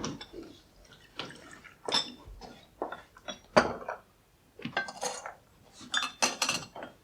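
Crockery and cutlery clinking: cups, saucers and spoons knocked together in irregular short clinks, some ringing briefly.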